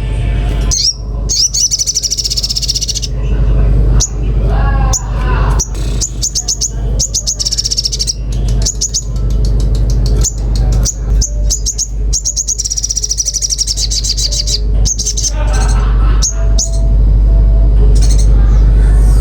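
Sogon bird singing loudly and actively, in repeated rapid high trills and chattering runs broken by short gaps.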